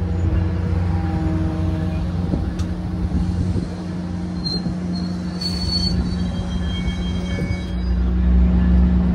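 Metrolink bilevel commuter train rolling slowly alongside the platform, with a steady low hum and rumble and a few short high-pitched squeals about halfway through. The rumble grows louder near the end.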